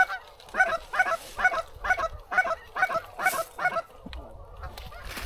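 A rapid series of short goose clucks, about a dozen at roughly three a second, that stop about four seconds in, as a goose is called in toward the blind.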